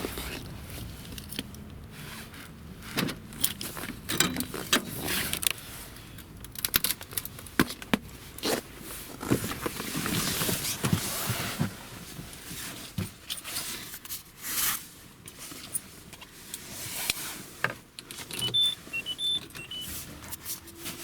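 Keys jangling and irregular clicks, knocks and rustling of someone handling the key and controls in a car. A few short high electronic beeps sound near the end.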